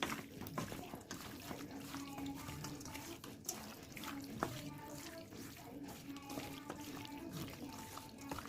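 Raw chicken pieces being mixed by hand with salt and turmeric in a bowl: wet squishing with irregular small clicks and knocks.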